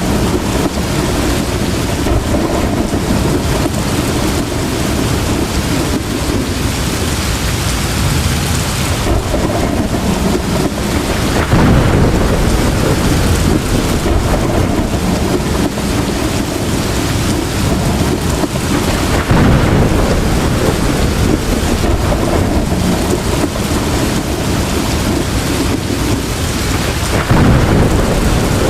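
Heavy, steady rain with rolling thunder, the rumble swelling louder three times, about a third, two thirds and nearly all the way through.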